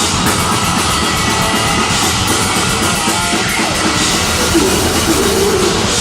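Deathgrind band playing live: loud, dense distorted guitar and drum kit, with a wavering tone coming in past halfway.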